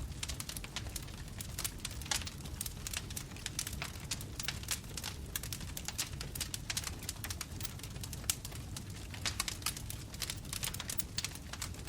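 Wood bonfire crackling, with many irregular sharp pops and snaps over a low, steady rumble of flame.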